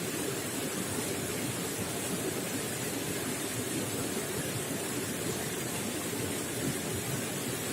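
Running water gurgling in a steady, unbroken rush.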